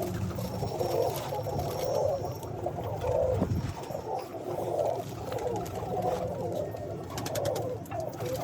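Several domestic pigeons cooing continuously, their low calls overlapping. A short run of light clicks comes about seven seconds in.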